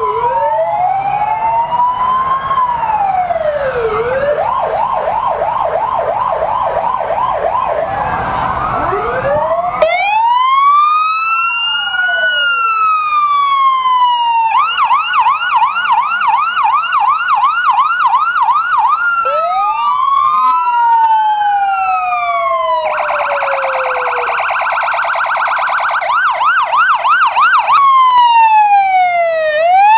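Several emergency-vehicle electronic sirens sounding at once and overlapping. They switch between a slow rising-and-falling wail and a rapid yelp of about four cycles a second, with a very fast warble about three-quarters of the way through.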